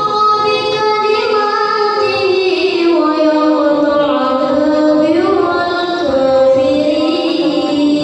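A female voice singing long, ornamented held notes that glide slowly up and down in pitch.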